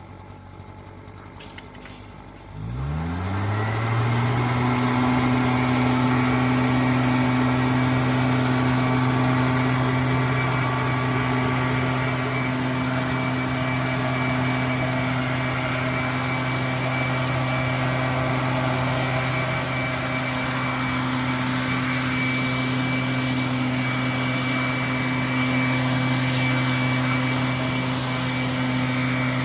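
A few faint clicks, then an engine starts about two and a half seconds in, spins up quickly and settles into a steady run at constant speed.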